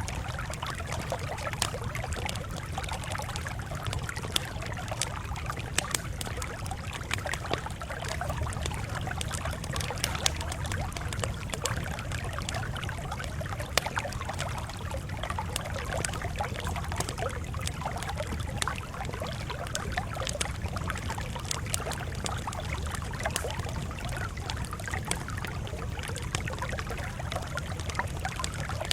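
Crackling campfire: frequent sharp irregular crackles and pops over a steady low noise of the burning fire.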